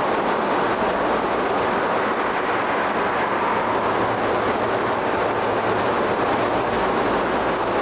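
Steady rushing noise of a stream, even and unbroken, with a faint low hum underneath.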